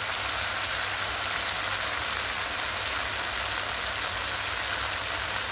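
Chicken sizzling in a hot pan: a steady frying hiss over a low hum.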